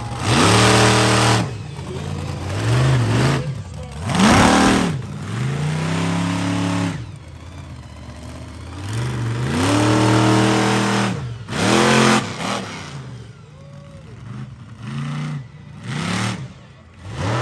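Monster truck's V8 engine revving hard in repeated throttle bursts, its pitch climbing, holding and dropping again about every two or three seconds.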